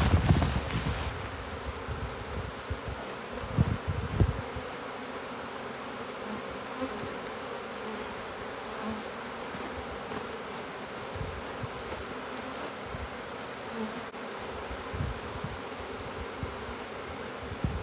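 Honey bee swarm buzzing steadily as the bees settle on the front of a hive, with a few brief low bumps near the start and about four seconds in.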